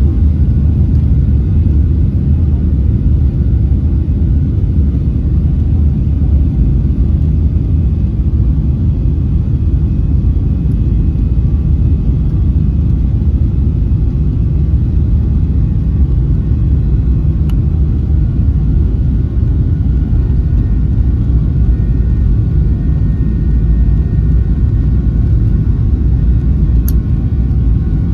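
Steady low rumble of a Boeing 737-800's CFM56-7B engines and airflow, heard inside the passenger cabin.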